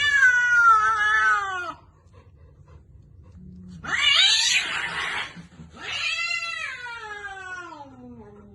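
Domestic cat giving three long, drawn-out meows, the first and last sliding down in pitch, the middle one harsher.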